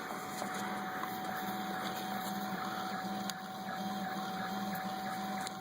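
Felix 3D printer running a print: its motors hum in short start-stop runs over a steady tone.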